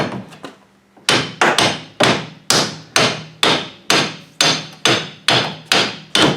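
Steel hammer blows on a VW front beam's suspension link to knock its pin loose: a couple of strikes at the start, then from about a second in a steady run of about two blows a second, each with a metallic ring.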